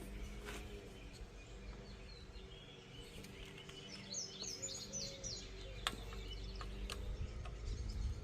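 Birds chirping in the background, with a quick run of high, falling chirps about four seconds in, over a steady low hum. A few sharp clicks sound now and then.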